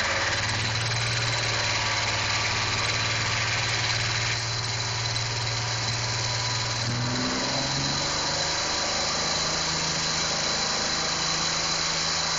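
Chevrolet 4.3L TBI V6 running with no oil or coolant, being run to destruction, its failing main bearings knocking. The engine note shifts about halfway through.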